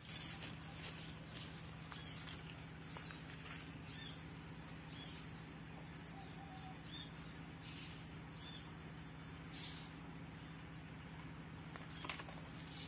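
Short, high bird chirps, one every second or two, over a steady low hum.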